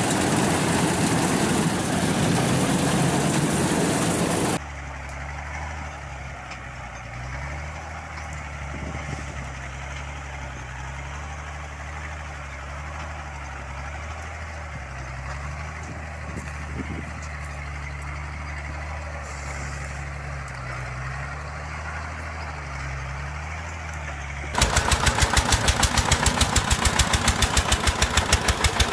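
Farm machine engines, heard in three parts with sudden changes between them. First a loud, even engine noise, then a quieter low, steady engine hum for about twenty seconds. Near the end comes a loud, rapid, even thumping of the kind a single-cylinder walking-tractor engine makes.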